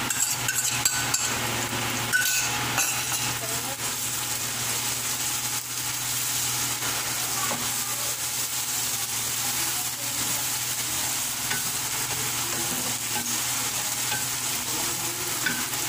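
Chopped onion, cumin seeds and ginger-garlic paste sizzling in hot oil in a metal kadhai, stirred with a spatula. The sizzle is steady, with a few knocks against the pan in the first couple of seconds.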